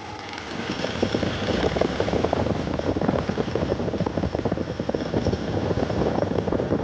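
Motorcycle engine running while riding, a rapid uneven pulsing that grows louder about a second in.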